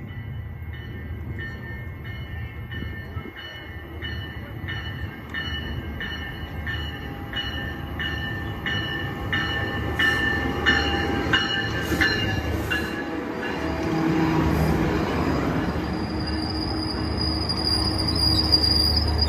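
Metrolink commuter train arriving at a station platform: a warning bell rings steadily about one and a half strokes a second for most of the first two-thirds. The diesel locomotive and cars then rumble past, louder as they draw alongside, and a high brake squeal sets in near the end as the train slows to a stop.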